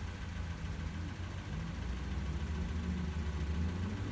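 Off-road car's engine running at low revs, a steady hum that rises slightly in pitch about three seconds in.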